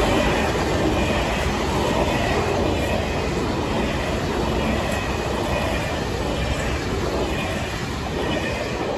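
Freight train of covered sliding-wall and tarpaulin wagons rolling past at speed: a steady rumble of steel wheels on the rails, with a faint high wheel squeal over it.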